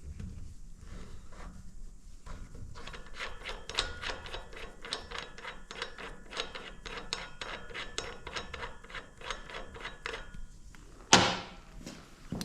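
Ratchet wrench clicking in a quick, even run of about four to five clicks a second for several seconds. Near the end comes one sharp, loud metallic knock.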